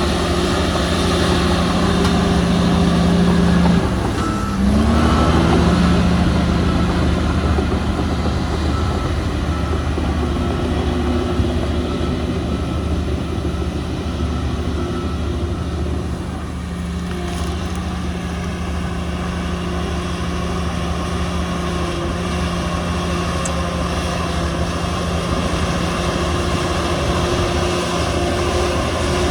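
Heavy diesel earthmoving machine running steadily, with a brief dip and rise in the engine note about four seconds in.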